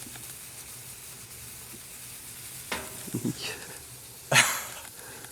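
Wood stove fire giving a steady crackling hiss. About three seconds in there is a short low voiced sound, and a little past four seconds a louder, brief breathy burst.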